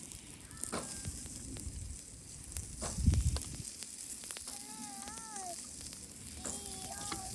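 Food sizzling on a charcoal barbecue grill, a steady hiss with sharp crackles and pops. A dull thump comes about three seconds in, and a short wavering whistle-like sound comes twice in the second half.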